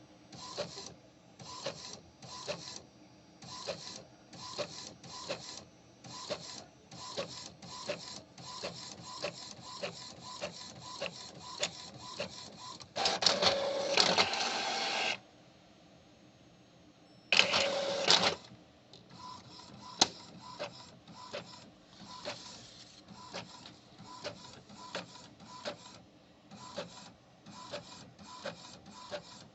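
Epson L3250 EcoTank inkjet printer printing: the print head carriage shuttles back and forth in short, even passes about one and a half a second, with two louder, longer whirring stretches around the middle.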